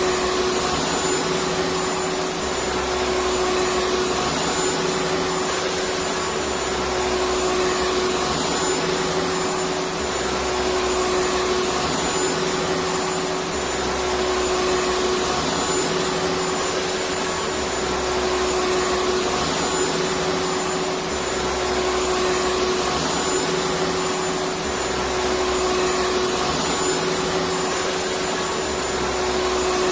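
Vacuum cleaner running steadily: a constant motor whine over a rushing hiss of air, with a low rumble that swells about every three seconds.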